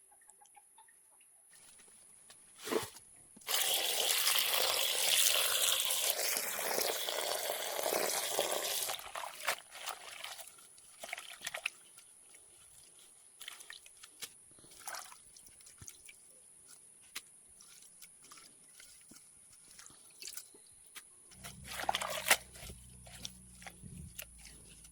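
Water pouring or running for about five seconds, then stopping, followed by scattered drips and small knocks.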